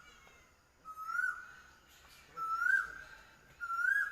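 A bird calling: a clear whistled note that rises and then drops, repeated three times about a second and a half apart.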